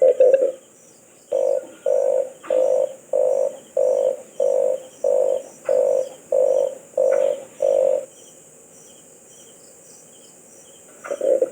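Red collared dove cooing: a quick run of low notes at the start, then about ten rolling coos evenly spaced about two-thirds of a second apart, a pause, and a quick run again near the end. A faint steady high hiss sits behind it.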